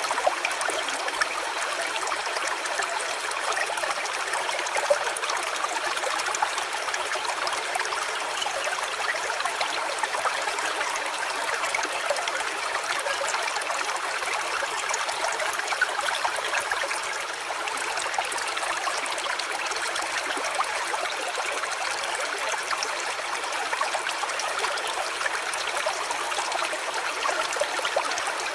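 Stream water trickling and flowing steadily.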